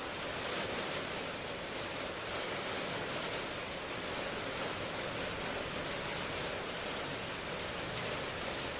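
Steady rain, a constant even hiss of falling drops without thunder or distinct nearby drips.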